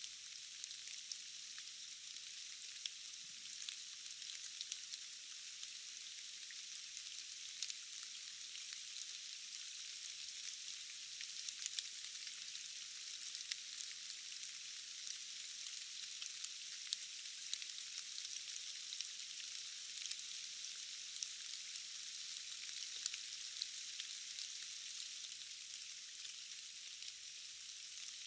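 Steady rain falling in a forest: an even hiss with many small, sharp drop ticks scattered through it.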